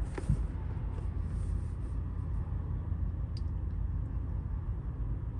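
2002 Ford Explorer's engine idling fast at about 1100 rpm, heard from inside the cabin as a steady low rumble. It is still warming up just after a start, with the torn vacuum line to the purge valve replaced. A couple of light clicks sound near the start and about three and a half seconds in.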